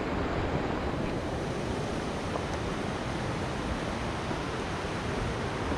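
A river rushing over rocks: a steady, even noise of moving water.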